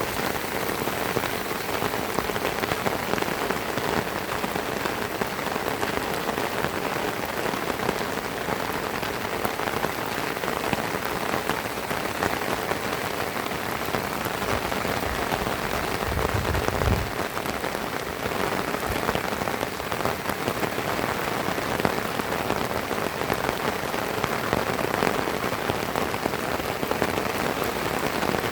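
Heavy rain falling steadily and densely, a constant hiss and patter. A brief low thud or rumble comes a little past halfway.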